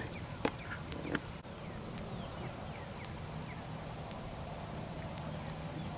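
Insects calling outdoors: a steady, high-pitched drone at two pitches, with a faint low rumble underneath.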